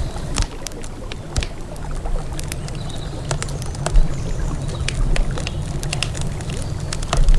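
Campfire crackling, with irregular sharp pops and snaps, over a low steady rumble from the river.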